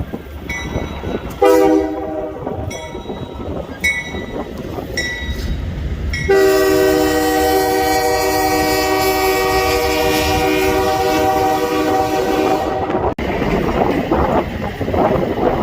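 Diesel locomotive air horn: a short blast, then one long blast of about six seconds, over the rumble of a train. A high ding sounds about once a second before the long blast, and the sound breaks off abruptly just after it.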